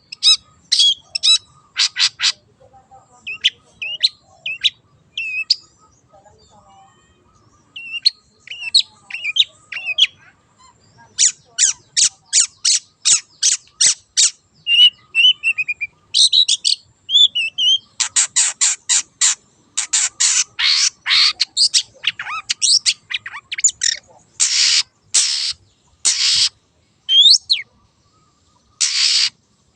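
Long-tailed shrike (cendet) in full song: rapid runs of harsh, rasping notes several a second, mixed with short whistled and chirping phrases.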